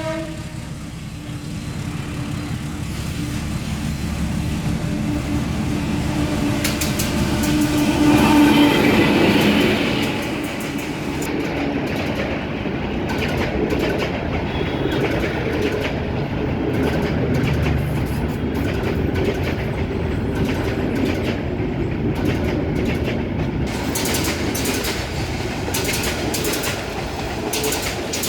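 An old diesel locomotive running past: the tail of its horn at the very start, then its engine drone growing to a peak about eight to nine seconds in, followed by the coaches rolling by with a steady clickety-clack of wheels over rail joints.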